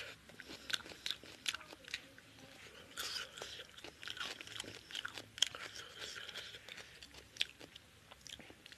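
Close-miked chewing with the mouth open: wet smacking and many short irregular clicks from mouthfuls of rice, chicken curry and crunchy raw cucumber.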